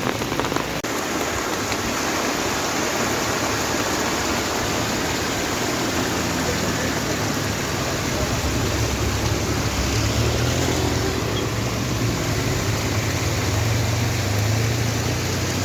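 Steady rushing noise, with a heavy truck's engine droning low that grows louder from about halfway through as the truck tries the steep climb again.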